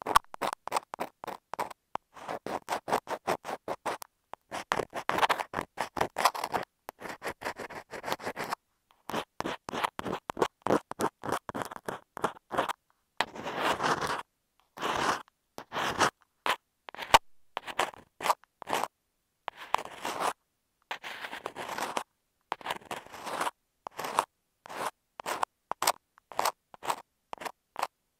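Ear pick scratching against an earphone microphone in quick short strokes, close up, in clusters broken by brief silences.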